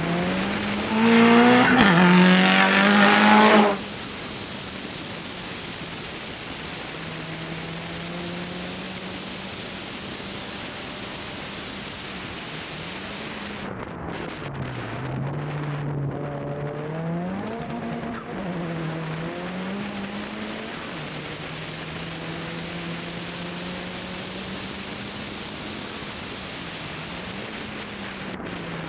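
Hill-climb rally car's engine under hard acceleration: loud revs climb steeply for the first few seconds, then cut back sharply. The engine note then runs quieter, rising and falling in pitch as the car accelerates and slows through the bends, over a steady rush of wind and road noise.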